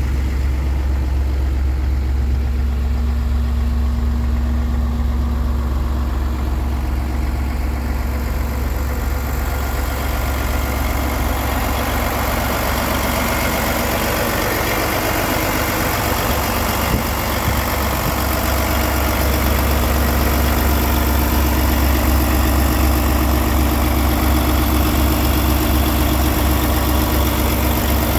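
Diesel truck engine, the Paccar MX-13 of a Peterbilt 389, idling steadily with a deep low hum. About a third of the way through, its sound becomes brighter and slightly louder.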